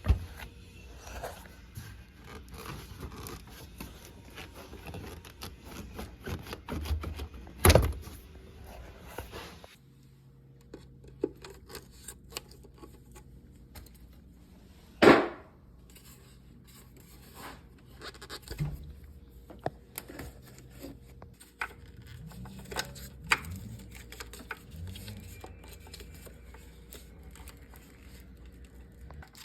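Hand tools and metal parts clinking, scraping and knocking while parts are taken off in a car's engine bay, with two louder sharp knocks, about a third of the way in and about halfway.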